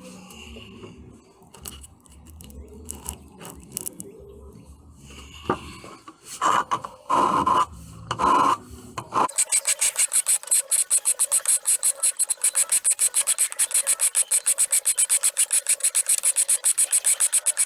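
Hand file rasping across a steel knife blank to cut the edge bevel: a few slow, separate strokes, then from about nine seconds in a run of quick, even strokes.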